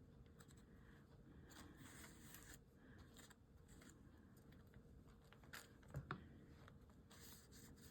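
Near silence with faint paper and craft-material handling: soft rustles, and two light taps about six seconds in.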